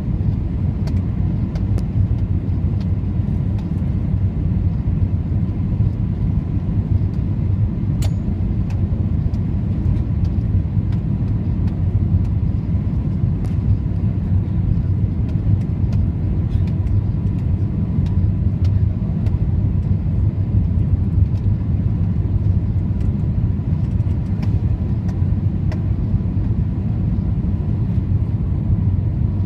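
Steady low rumble of cabin noise inside an Airbus A320 on approach: engine and airflow noise, with a faint steady whine and a few small clicks.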